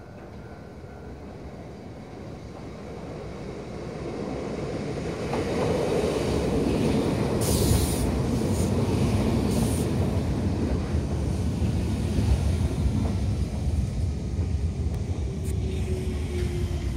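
Nagano Electric Railway 3500-series four-car electric train approaching and running in alongside the platform. Its rumble grows steadily louder as it draws near and stays loud as the cars pass close by. There are two short hisses about two seconds apart, and near the end a faint whine falls in pitch as the train slows.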